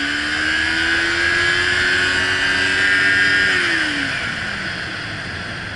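Motorcycle engine pulling under throttle while riding, its pitch holding steady and then dropping away about four seconds in as the throttle is rolled off, over a steady rushing noise.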